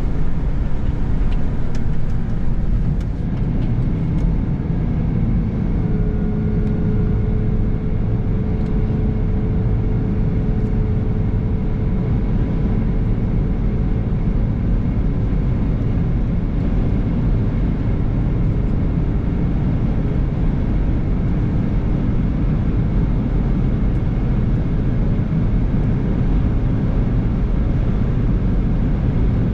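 Steady road and engine noise of a car being driven, heard from inside the cabin as a loud, even low rumble. A faint steady whine joins it for several seconds after about six seconds in.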